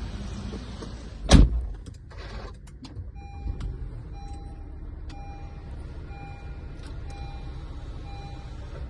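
A car door shuts with one loud thud, followed by a few clicks. Then a car's warning chime beeps six times, about once a second, over a low steady rumble.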